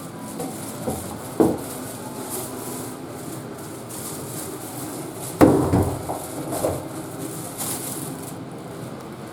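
Two sharp clunks about four seconds apart, each ringing briefly, with a few lighter knocks after them, over a steady hiss.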